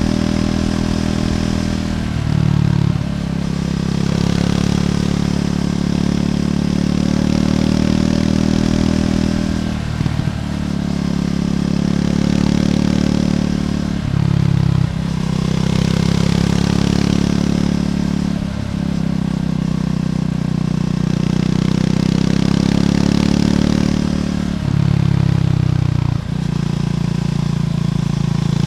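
Triumph Scrambler 400X's single-cylinder engine through its stock exhaust while riding, a steady engine note that dips briefly about six times, as in gear changes.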